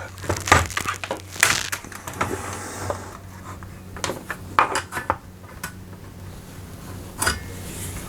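Irregular clicks and knocks of hands handling the opened Rexel LV250HS laminator's plastic casing and internal parts, with a quieter stretch near the end, over a faint steady low hum.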